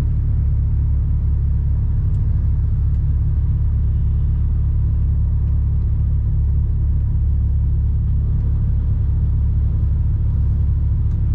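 Mercedes Actros truck's diesel engine running steadily at low revs, a constant low rumble.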